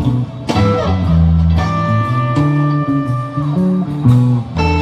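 Live band music between sung lines, with guitars and bass guitar playing. A long held guitar note sounds through the middle.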